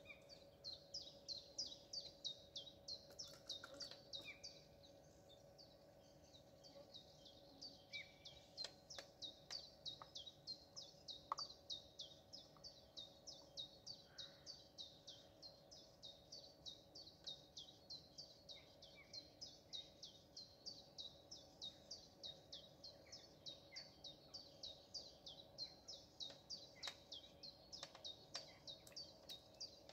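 A small songbird calling over and over in a long run of short, high, down-slurred notes, about three a second, with a brief break about five seconds in; faint.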